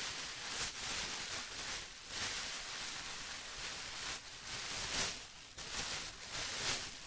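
Plastic rustling and crinkling continuously, with irregular louder crinkles swelling and fading, the strongest about five seconds in.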